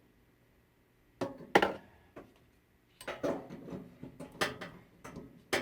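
Metal clicks and knocks from a laundry faucet stem being worked into the threads of the faucet body: two sharp knocks after about a second, then a run of clicking and scraping with a sharp click near the end, as the thread fails to catch.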